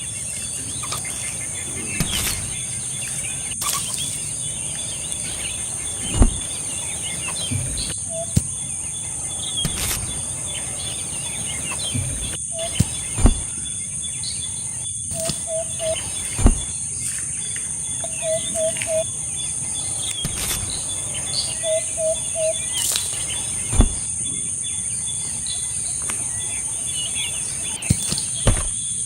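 Outdoor ambience: a steady high-pitched buzz of insects with birds chirping, short three-note calls now and then. About a dozen sharp knocks or taps are scattered through it.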